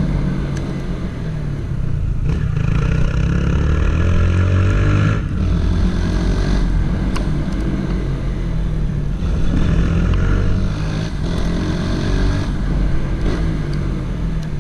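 Honda CG 160 Titan's single-cylinder four-stroke engine running under load as the motorcycle rides along, pitch climbing between brief dips at gear changes about two, five and eleven seconds in.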